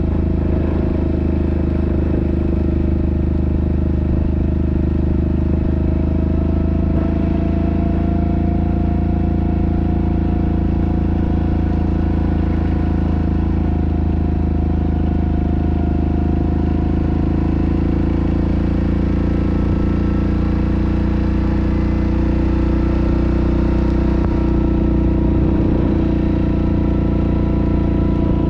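Yamaha Grizzly ATV's single-cylinder engine running steadily under way. Its pitch rises slightly a few seconds in, and the note changes about two-thirds of the way through.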